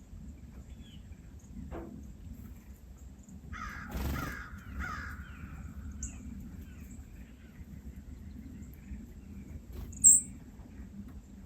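Harsh, caw-like bird calls, a short cluster about four seconds in, with a single sharp high chirp near the end.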